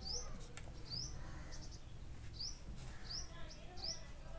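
Faint bird chirping: short rising chirps repeated about once or twice a second, over a low steady room hum.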